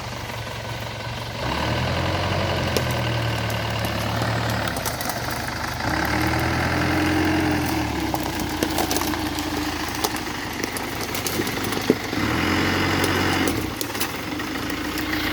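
Off-road truck's engine running under load, revving up three times and easing back between the spells, as on a slow climb up a steep trail.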